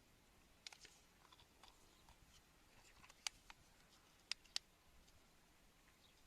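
Near silence with a few faint, sharp clicks: one just under a second in, one a little past three seconds, and a close pair just after four seconds.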